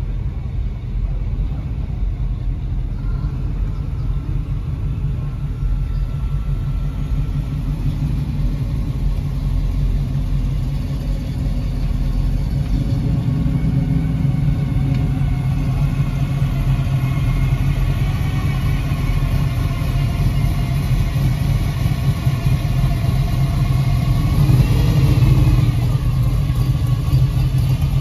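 Classic cars' engines rumbling as they creep past at low speed, a deep steady exhaust note that grows louder as the cars come closer. Near the end one engine revs up briefly.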